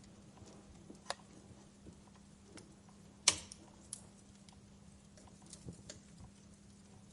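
Wood fire crackling in a fireplace: scattered snaps and pops, the loudest a sharp pop about three seconds in, over a faint steady low hum.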